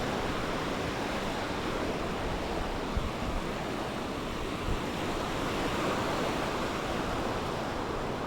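Sea waves washing on a beach in a steady rush of surf, with wind buffeting the microphone in a couple of brief low bumps.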